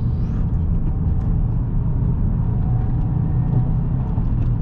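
2022 Subaru WRX's turbocharged flat-four engine and road noise heard from inside the cabin while driving: a steady low rumble with a faint hum over it.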